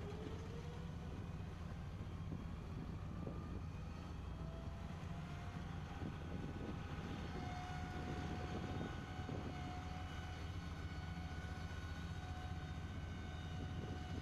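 Steady low engine or machinery rumble. About four seconds in, a whine rises and then holds at a steady pitch.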